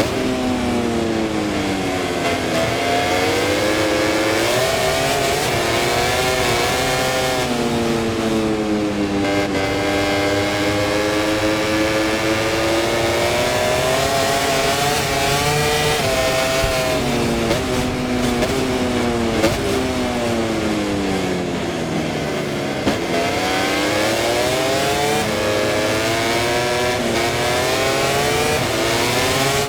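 MotoGP racing motorcycle engine heard from the onboard camera, its pitch falling and rising in long sweeps several times as the bike slows for corners and accelerates out of them.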